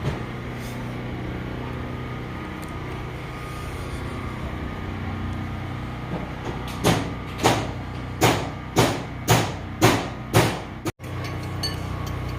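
A steady mechanical hum, then seven loud knocks about half a second apart, each with a short ring. The sound breaks off suddenly near the end.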